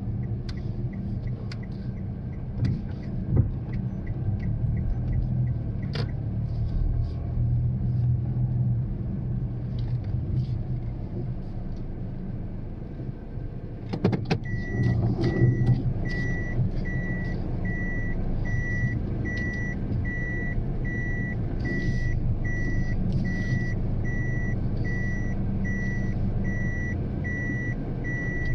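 Daihatsu Mira Cocoa's small three-cylinder engine running, heard from inside the cabin. About halfway through there is a short clatter, then a high electronic beep starts and repeats evenly without stopping.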